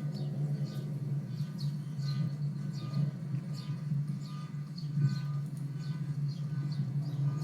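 A small bird chirping over and over, about two short falling chirps a second, over a steady low drone.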